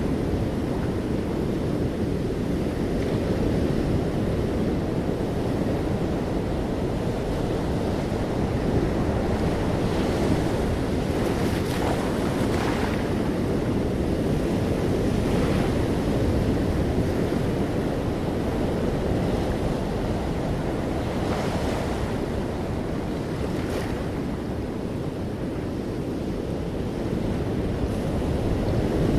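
Sea waves breaking and washing on a shore, a continuous low rush of surf with brief brighter splashes now and then.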